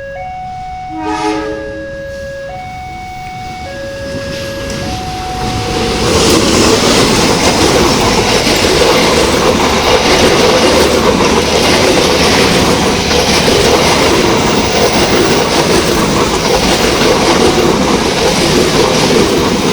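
Level-crossing warning alarm sounding two alternating tones, with a short train horn blast about a second in. From about five seconds in, the Pasundan passenger train runs through the crossing, its wheels and cars rushing and clattering loudly over the rails and drowning out the alarm.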